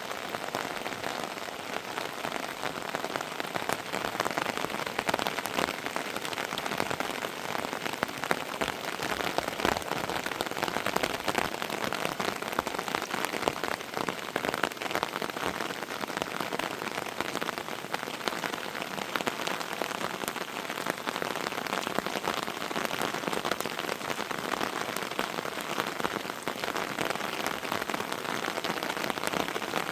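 Heavy rain falling steadily, a dense stream of individual drop hits over an even hiss.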